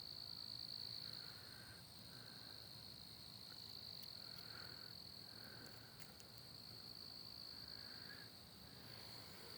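Faint, steady high-pitched trilling of crickets, with softer short calls repeating about once a second lower down.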